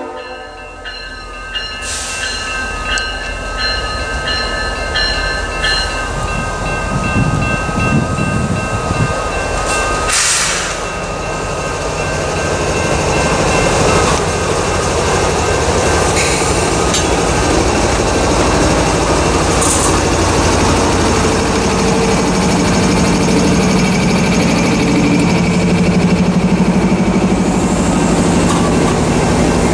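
A string of CSX diesel locomotives hauling a freight train passes close by. A grade-crossing bell rings steadily at first, then the engines and the wheels on the rails grow louder and fill the sound as the locomotives go by.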